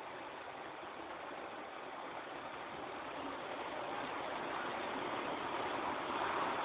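Heavy thunderstorm rain pouring down in a steady hiss that slowly swells louder toward the end.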